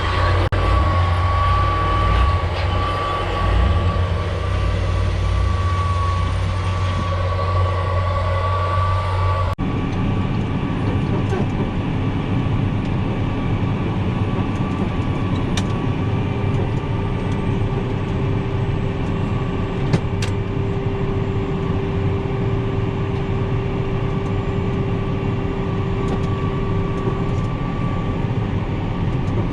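Tractor engine running steadily under a constant drone with a high whine. About ten seconds in, the sound changes abruptly to a rougher, noisier engine drone with a lower steady whine.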